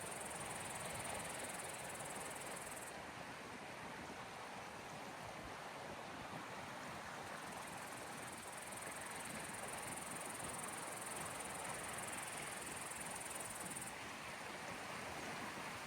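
Small sea waves washing steadily on the shore. A high insect buzz runs over it, breaks off about three seconds in, comes back midway and stops again near the end.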